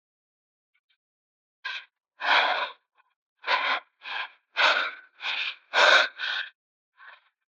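A cyclist's heavy, rapid breathing, about ten quick panting breaths at roughly two a second. It is the hard breathing of exertion while pedalling up a long mountain climb.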